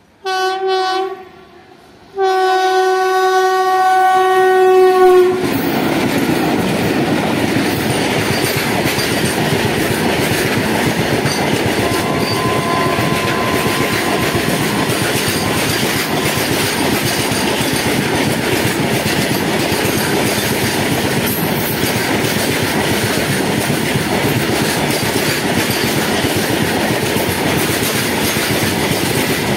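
Twin WAG-7 electric locomotives sound their horn, a short blast and then a longer one about two seconds in. Once the horn stops the loaded freight wagons roll past with a steady, dense noise of wheels on rail.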